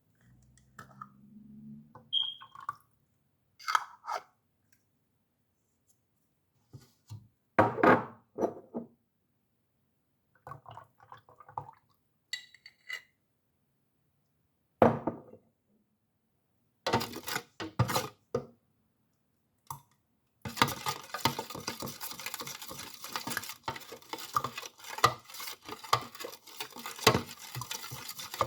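Glass containers and metal utensils clinking and knocking as they are handled, in scattered separate strikes. About twenty seconds in, this turns into a rapid, continuous clinking and rattling.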